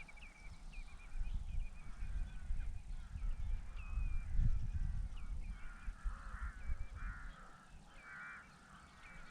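Several birds calling: a run of short, repeated chirps and some harsher, rasping calls. Under them runs a low, gusting rumble that is louder than the calls, typical of wind on the microphone; it eases off near the end.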